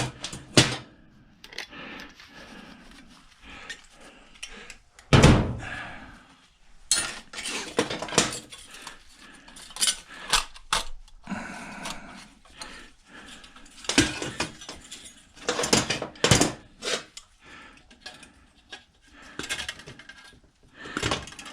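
Irregular metallic clinks and clanks of hand tools and parts as a microwave's magnetron is worked apart, with one heavier knock about five seconds in.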